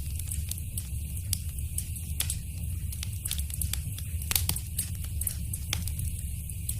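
Wood fire in a fireplace crackling: irregular sharp pops and snaps over a steady low rumble, with one louder pop about four seconds in.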